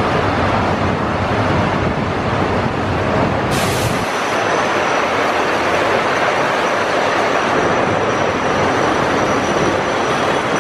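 Miniature train rolling along its narrow-gauge track: a steady rumble and rattle of the wheels and open passenger car. A brief hiss comes about three and a half seconds in, and then a thin, high steady squeal runs under the rumble.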